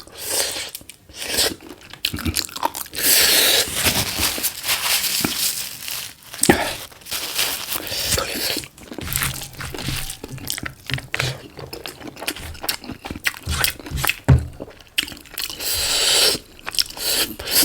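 Close-miked chewing and crunching of a tough piece of cooked chicken, with irregular wet bites and clicks, loudest in a few crunchy stretches.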